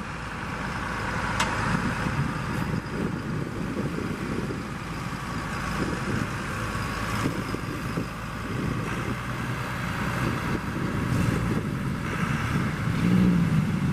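Engine of a beach boat-launching vehicle running steadily as it pushes a boat off, a little louder near the end.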